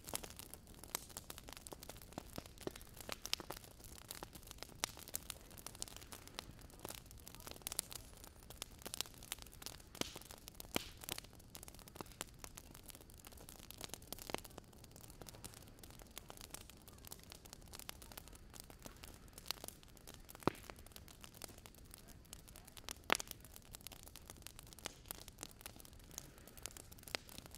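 Small driftwood campfire crackling: faint, irregular pops and ticks over a low steady hiss.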